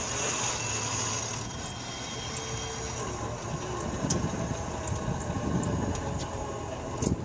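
Steady low rumble of a train approaching a railroad crossing, with a few light clicks and a sharper click near the end.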